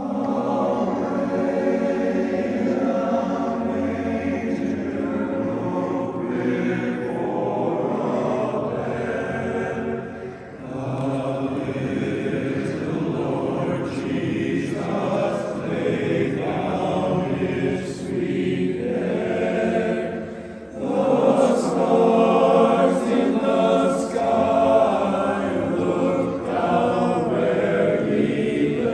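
Barbershop chorus singing a cappella in close harmony, with short breaks between phrases and a fuller, louder passage about two-thirds of the way through.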